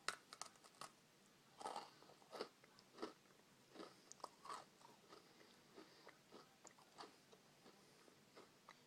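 A bite into a Peppermint Oreo cookie, then irregular crunching as it is chewed.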